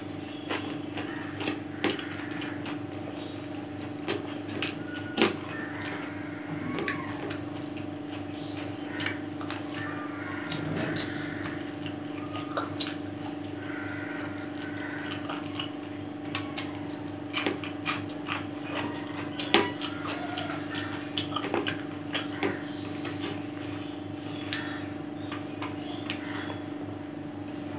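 Close-up eating sounds of biryani being eaten by hand: wet chewing, lip smacks and scattered mouth clicks, with a few louder smacks, over a steady low hum.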